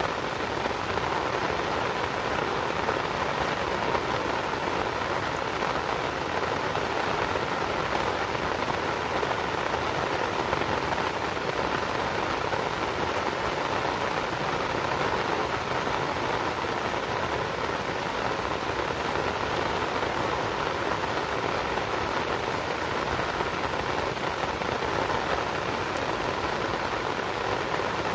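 Steady rain falling: an even, unbroken hiss of drops that neither builds nor eases.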